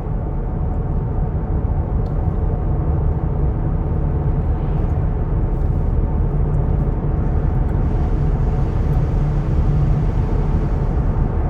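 Steady low rumble of a vehicle driving along a highway, its engine and road noise heard from inside the cabin.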